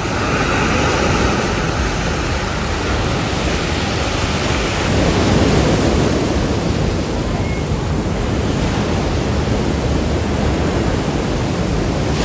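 Sea surf washing on a beach, with wind buffeting the microphone in a steady rumbling noise.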